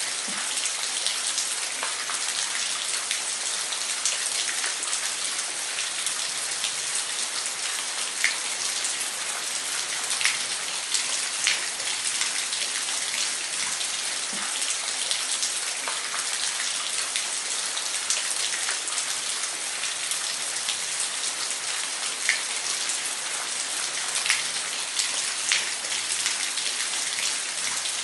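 Waterfall: a steady hiss of falling water, with scattered brief, brighter splashes standing out here and there.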